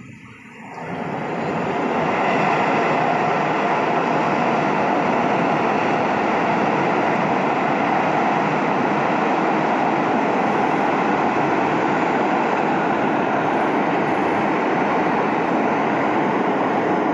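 Freight train running across a steel truss railway viaduct: a steady, loud rush of wheels and rails on the bridge, swelling up about a second in and holding.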